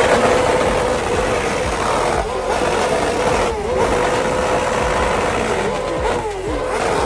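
A car running loud and hard: a steady drone over a wash of noise, dipping briefly in pitch a few times.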